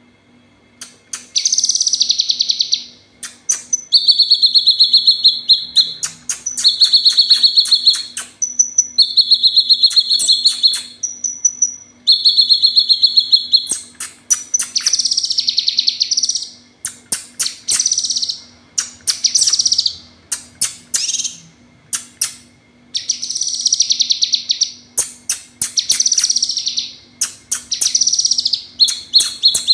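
Female kinoy calling: loud, rapid buzzy trills, each lasting a second or two, repeated over and over with short pauses, mixed with sharp, clipped chip notes.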